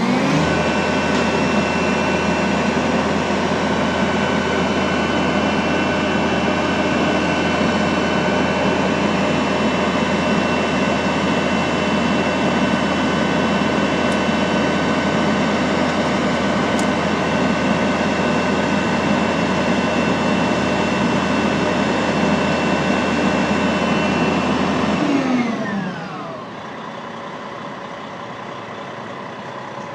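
Fire engine ladder truck running at raised revs to drive the aerial ladder's hydraulics as the ladder extends, a steady mechanical drone with a whine. About 25 seconds in the pitch falls away and the truck settles to a quieter idle.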